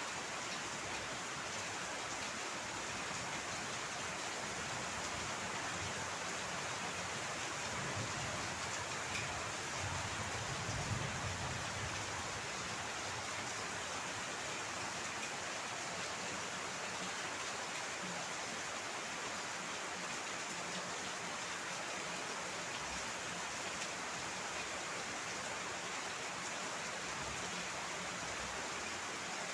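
Heavy rain falling steadily, an even hiss. A brief low rumble swells up about a third of the way in and fades again.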